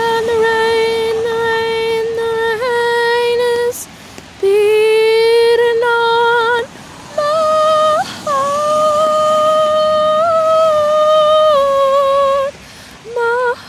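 A woman's voice singing an unaccompanied wordless melody, hummed or sung on a vowel, in long held notes. There are four phrases with short pauses between them, and the pitch steps up partway through.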